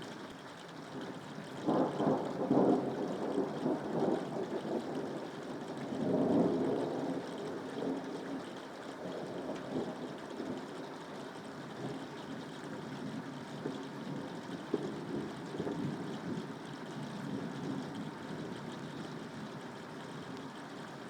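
Steady rain with rolling thunder: rumbles swell about two seconds in and again about six seconds in, then die away under the rain.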